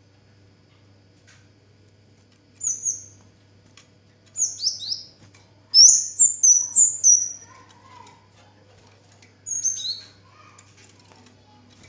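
Kemade (cigen) bird singing in short bursts of sharp, high chirps that each slide quickly downward. There are four phrases, the longest and loudest a rapid run about halfway through, over a faint steady low hum.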